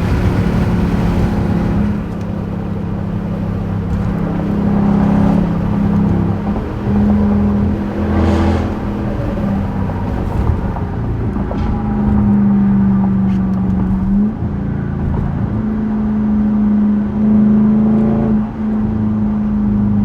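Straight-piped 2021 Dodge Durango RT's 5.7-litre Hemi V8 exhaust at highway speed: a steady drone that dips briefly a few times as the throttle eases and comes back on.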